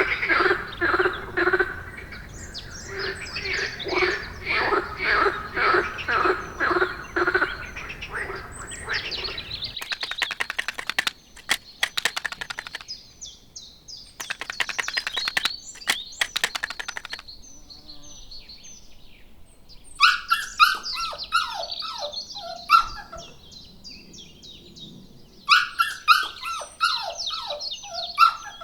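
A sequence of animal calls. First comes a run of evenly repeated calls, about two or three a second, for roughly nine seconds. Then come two bouts of fast, buzzing trills, and from about twenty seconds in, bursts of high bird chirps.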